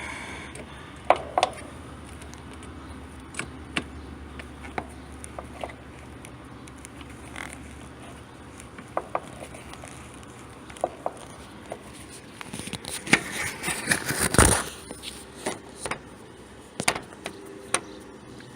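Hand tools being handled at an air conditioner's refrigerant service valve: scattered sharp clicks and knocks, with a quick run of rattling and knocking about 13 to 14 seconds in.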